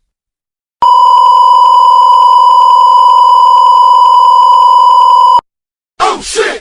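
A loud, steady electronic beep: one unchanging held tone, about four and a half seconds long, that starts about a second in and cuts off sharply. A short, noisier sound begins near the end.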